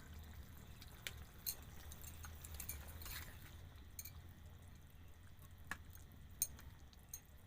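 Faint low rumble of a curry simmering in a kadai over a wood fire, with a few scattered soft clicks.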